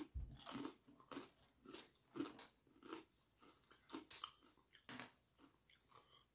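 A person chewing a mouthful of kettle-style potato chips: faint, crisp crunches, about two a second.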